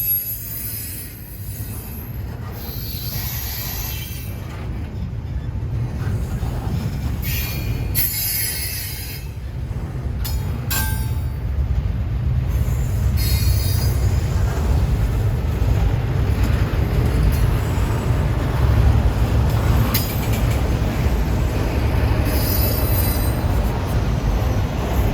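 A train rolling past, with a steady low rumble of its cars on the rails and short bursts of high wheel squeal that come and go.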